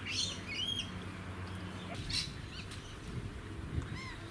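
Wild birds chirping: several short, arched high chirps scattered through, over a faint steady low hum.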